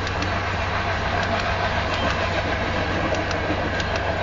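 Covered grain hopper cars of a freight train rolling past at about 35 mph: a steady rumble with scattered sharp wheel clicks.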